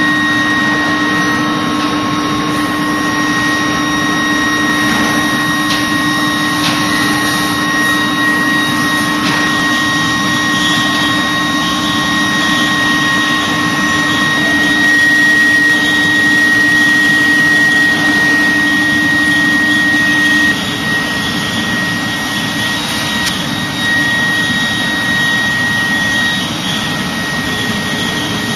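Local exhaust ventilation unit for casting work running: a steady rush of air from its blower with a few constant whining tones. One tone drops out about halfway through, and a lower hum stops about three-quarters of the way in, where the noise gets slightly quieter.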